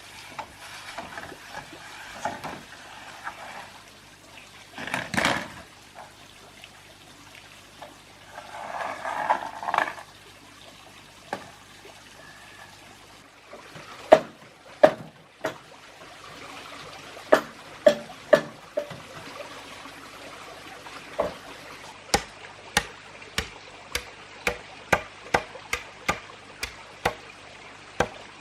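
Water pouring and trickling with a couple of louder splashy swells, then a run of sharp knocks, scattered at first and settling into a steady beat of about one and a half knocks a second in the last third.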